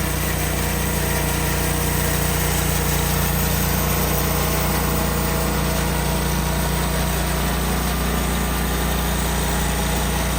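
Engine running at a steady speed, with an even drone that does not change.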